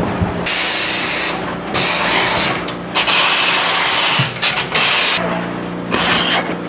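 Compressed air hissing in several separate bursts of about a second each, over a steady mechanical hum, while a truck tire is being worked off its wheel.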